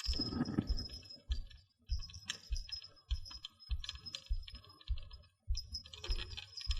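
Fishing reel being wound in with a fish on the line, making irregular clicking with short stretches of a high whir, over low knocks from handling the rod.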